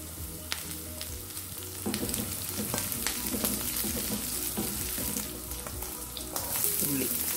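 Chopped ginger, garlic and green chillies sizzling in oil in a nonstick frying pan, stirred with a silicone spatula. Near the end the sizzle grows louder as chopped onions are tipped into the pan.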